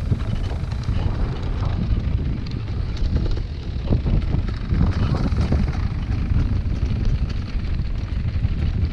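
Motocross bikes running on the track, heard through heavy wind buffeting on the microphone, with voices of spectators mixed in.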